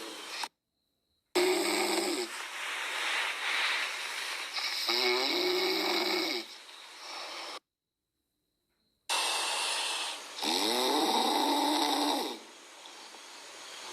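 Chihuahua puppy snoring loudly in its sleep: a run of snores with a wavering, fluttering pitch. The sound cuts out to dead silence twice, about half a second in and about halfway through.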